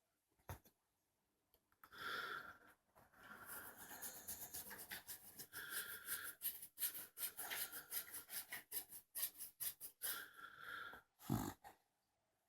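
Dachshund snoring: breaths with a high whistle-like tone about every four seconds, and a rapid fluttering rattle of about five flutters a second in between. A louder burst comes near the end.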